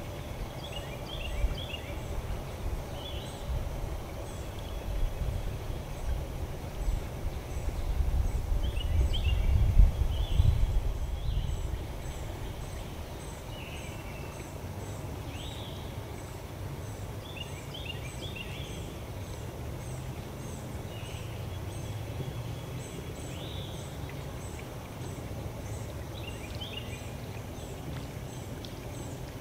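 Birds chirping in short repeated phrases, over a low rumble on the microphone that swells about a third of the way in and then settles to a steady low haze.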